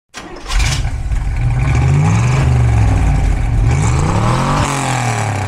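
V8 engine revving, its pitch rising and falling several times, with a sudden loud onset about half a second in.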